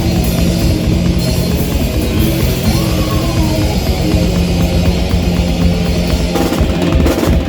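Rock band playing loud live, with electric guitars and a drum kit; the playing changes about six seconds in, toward a drum-led passage.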